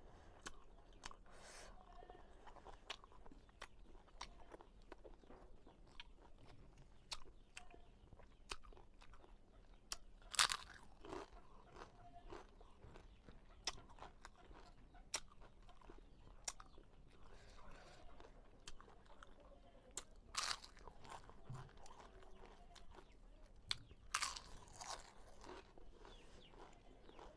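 Close-miked chewing with many small mouth clicks throughout, and a few loud crisp crunches as crisp papad is bitten, the loudest about ten seconds in.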